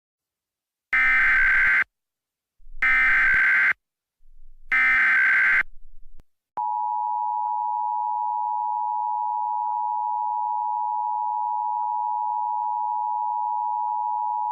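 Emergency Alert System SAME header: three separate one-second bursts of buzzy digital data tones, then, about six and a half seconds in, the EAS attention signal, a steady two-tone alarm held for about eight seconds. The sequence signals that an emergency alert message is about to be read.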